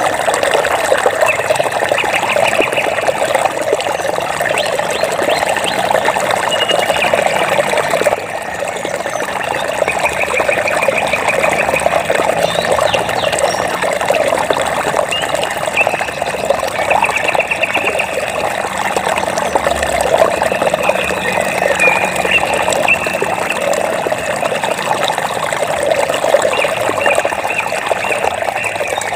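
Water running and trickling steadily. Short, rapid trilling animal calls come in every few seconds over it.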